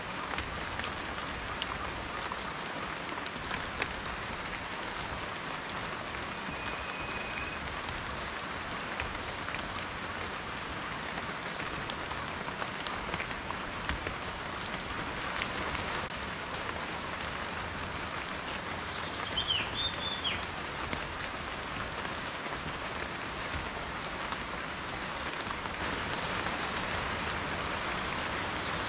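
Steady rain falling, with many individual drops tapping sharply on a surface. A short chirp, likely a bird, sounds briefly about two-thirds of the way through.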